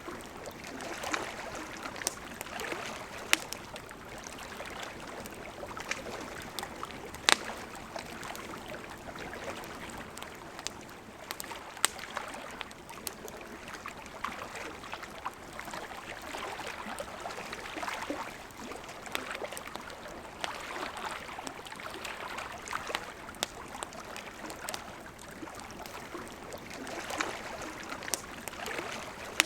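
Campfire crackling, with scattered sharp pops, over the steady rush of a flowing river.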